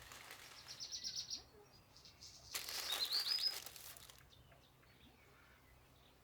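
A small bird giving quick series of high chirps in two short bursts, the second louder, each over a rush of noise.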